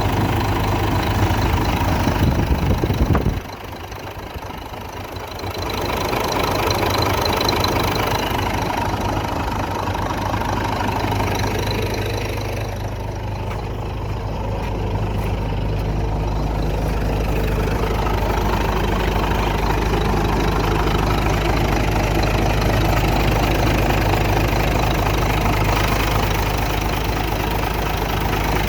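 Late-1980s Mack semi truck's diesel engine idling steadily. The sound drops abruptly a little over three seconds in and comes back up over the next couple of seconds.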